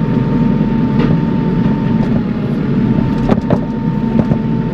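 Tractor engine running steadily at close range, with a steady high whine over it and a few short knocks and clunks, the clearest about a second in and twice more after three seconds.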